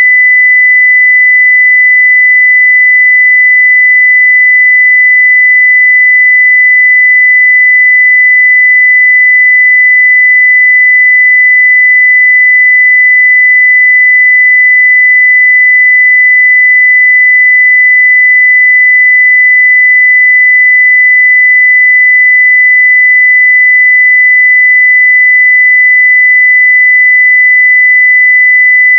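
Steady 2 kHz sine-wave test tone at full level, one unbroken pitch with no change in pitch or loudness.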